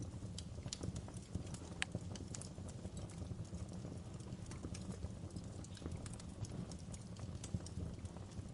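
Wood fire crackling: irregular sharp pops and snaps of burning logs over a steady low rumble of flame, with a louder pop about two seconds in and another near the end.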